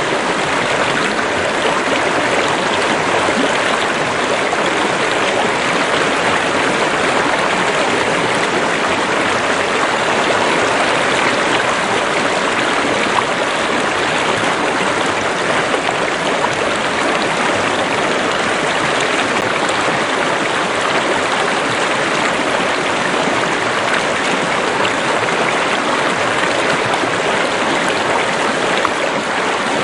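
A stream of running water, rushing and splashing steadily without change.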